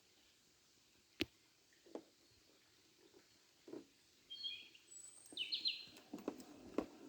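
Quiet woodland with a small bird giving a few short, high chirps about four and a half and five and a half seconds in. There is one sharp click about a second in, and faint scattered knocks and rustles.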